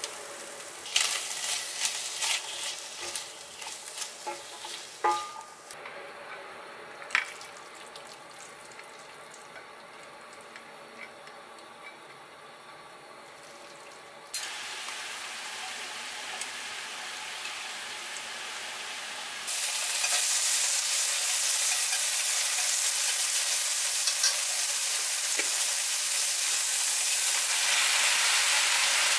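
Stir-frying: green beans and doubanjiang sizzle in a stainless saucepan while a spoon and spatula scrape and knock against the metal in a run of sharp clicks over the first several seconds. About twenty seconds in, a much louder, steady sizzling hiss sets in as wet pea shoots fry in a hot wok.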